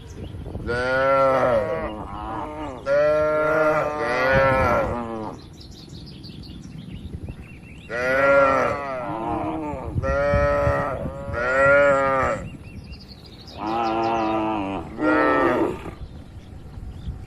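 Cattle mooing again and again: about seven drawn-out calls, each a second or two long with short gaps between, the pitch of each call arching up and falling away.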